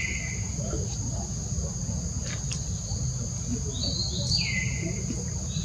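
A bird calling: a short high note followed by a falling, slurred whistle, heard about four seconds in, with the end of the same call at the very start. Under it runs a steady high-pitched insect drone and a low rumble of outdoor noise.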